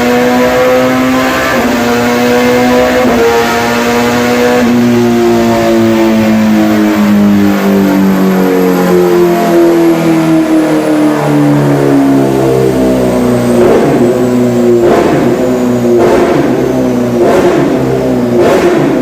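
Kawasaki ZX-6R inline-four engine running hard on a dyno through an Austin Racing aftermarket exhaust, its pitch stepping down once or twice early on and then gliding slowly through the run. Several sharp cracks from the exhaust come in the last few seconds.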